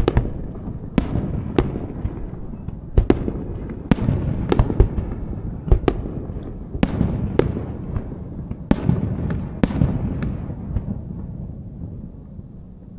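Aerial fireworks shells bursting in quick, irregular succession: over a dozen sharp bangs, each followed by a low rolling rumble, the barrage dying away near the end.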